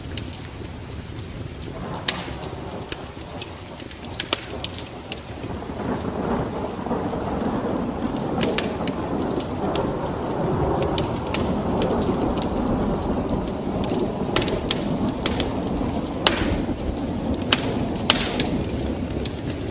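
Wood fire in a fireplace crackling, with frequent sharp pops. A low rumbling roar swells from about two seconds in and is loudest through the middle.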